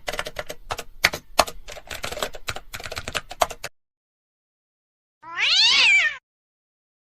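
Rapid, irregular keyboard typing clicks for about three and a half seconds, cutting off abruptly. After a pause comes one cat meow that rises and then falls, about a second long.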